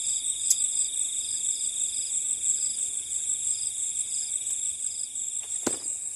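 Night insects, crickets among them, calling over the rice fields: a steady high trill with a shorter chirp repeating about twice a second. Near the end a single sharp knock sounds, something dropping from above onto the bamboo hut.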